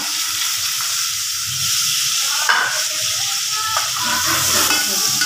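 Chopped onions and tomatoes frying in hot oil in an aluminium pot, a steady sizzle, with a metal spoon stirring and scraping against the pot now and then. This is the onion-and-tomato masala base of a curry being fried.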